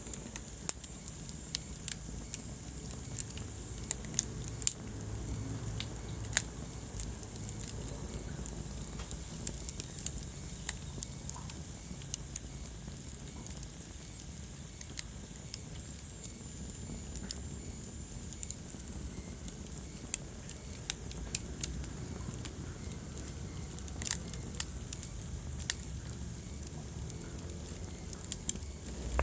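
Wood fire in a fireplace crackling: irregular sharp pops and snaps, a few louder ones, over a steady low rumble and soft hiss.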